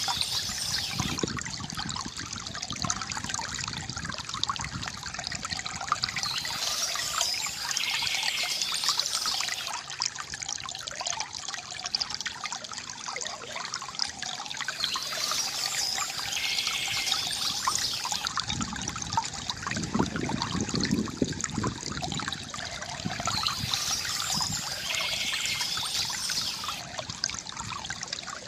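Small stream trickling and splashing steadily over stones, with brighter splashy swells recurring every eight or nine seconds.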